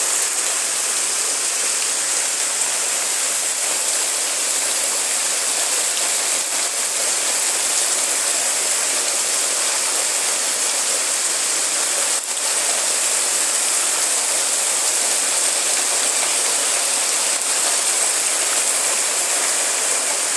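Heavy rain falling hard, a steady dense hiss.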